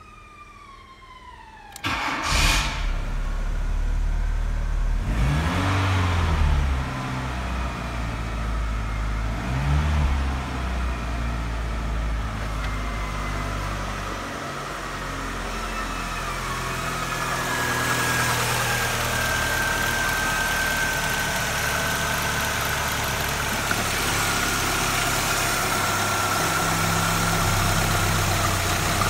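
VW Golf Mk2 1.6-litre four-cylinder petrol engine (code PN) cranked and catching about two seconds in, revved up briefly twice, then idling steadily.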